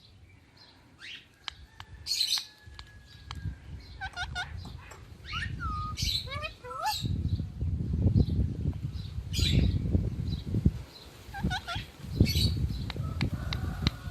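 Pet parrots chirping and whistling in short, repeated calls that slide up and down in pitch, with high peeps. Bursts of low rumbling noise come in the second half.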